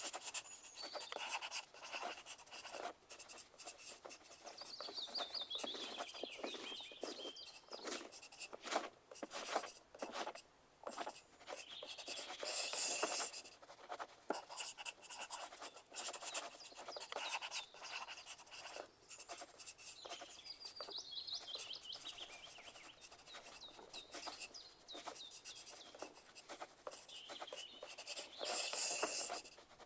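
Pencil writing on paper: quick scratching strokes and light taps in an uneven rhythm, with a louder stretch of scratching about halfway through and again near the end. Twice, a faint, quick falling series of high chirps can be heard in the background.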